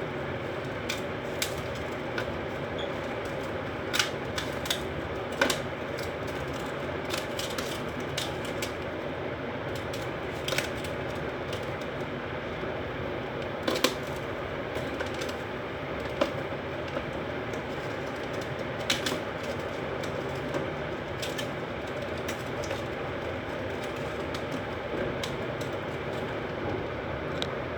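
Soft slime being squished and worked by hand, giving irregular sharp clicks and pops over a steady background hiss.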